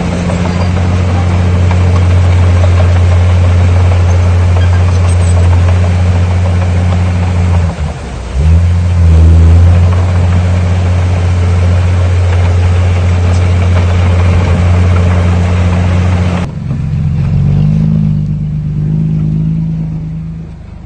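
Heavy diesel engine of earthmoving machinery running hard with a steady low drone, dipping briefly about 8 seconds in and then revving back up. About 16 seconds in the sound changes abruptly to a quieter, duller engine note that rises and falls.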